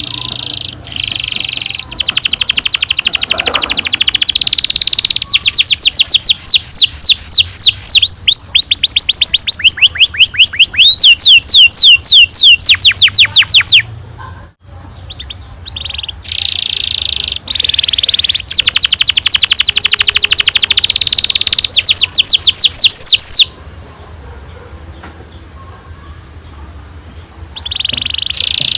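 Domestic canary singing long rolls: fast trills of quickly repeated, downward-sweeping high notes strung into long phrases. The song breaks off briefly about halfway through, goes quieter for a few seconds near the end, then comes back.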